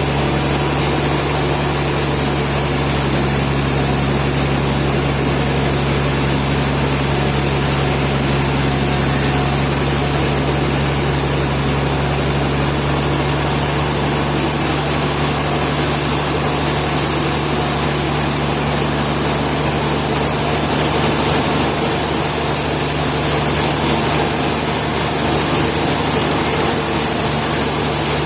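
Sawmill engine running steadily at an even speed, a constant low hum with no change in load.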